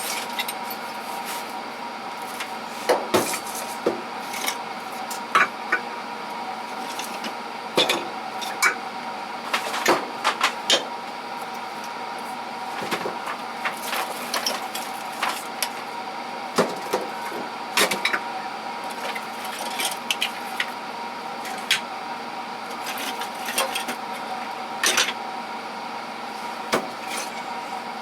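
Hand tools and small metal parts clinking and clattering as they are handled and set down in toolbox drawers: irregular knocks and clicks every second or so. A steady hum runs underneath.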